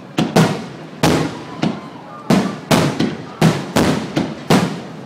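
Aerial firework shells bursting in rapid succession, about a dozen sharp bangs, each trailing off in a reverberant tail.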